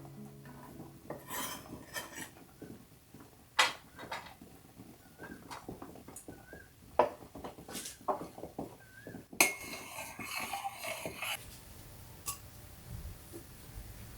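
Kitchen dishes and metal utensils clinking and knocking in irregular sharp strikes. About nine seconds in, a loud knock is followed by a rushing noise that lasts about two seconds.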